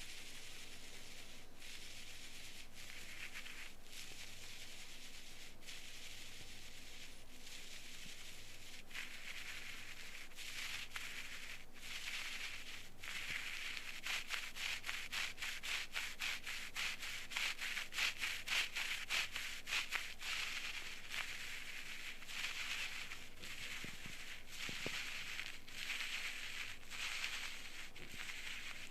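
Close-up scraping and rubbing inside an ear canal during ear cleaning: dry scratchy strokes with small crackling clicks. The strokes come quicker and louder through the middle stretch, then ease off.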